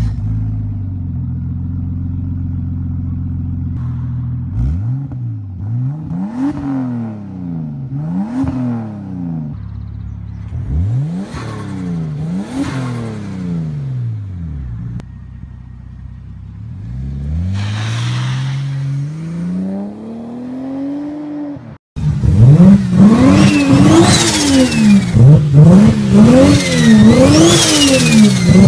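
Nissan Skyline R34's turbocharged straight-six idling steadily, then free-revved in repeated blips that rise and fall, with crackles as the revs drop. About 22 s in, another R34 is revved harder and louder in quick blips about once a second, with dense popping and crackling and a high turbo whistle rising and falling with the revs.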